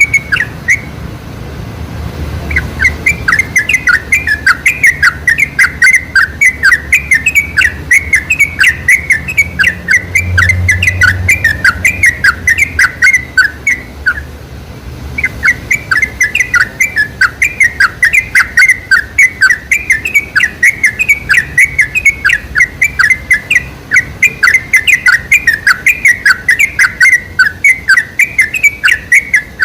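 Yellow-vented bulbul (trucukan) singing a long, fast string of chattering chirps, about five or six a second. The string breaks off briefly about a second in and again about halfway through.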